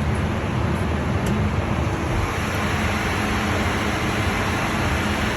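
Steady cabin noise of a Learjet 75 in flight: an even rush of engine and airflow noise with a low rumble underneath.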